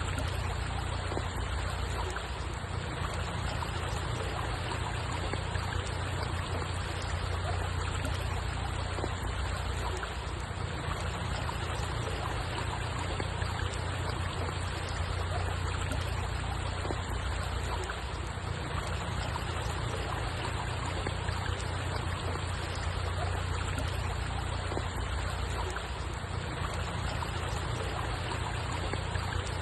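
Steady running water, a constant even rush with a low rumble beneath it that does not change.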